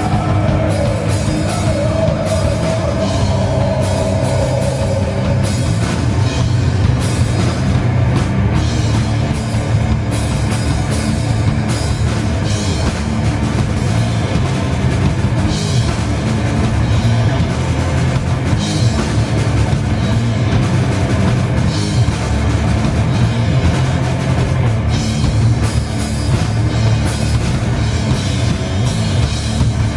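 Heavy metal band playing live, with distorted guitars, bass and a drum kit with cymbals. Near the start a held note slides down in pitch and holds for a few seconds.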